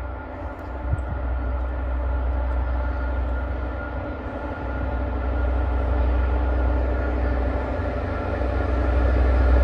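Diesel locomotive engine working hard under load as it hauls a freight train: a steady low drone with a layered hum of steady tones, growing louder near the end, and a short knock about a second in.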